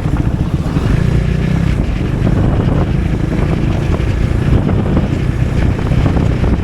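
Motorcycle under way, its engine running under heavy wind buffeting on the microphone.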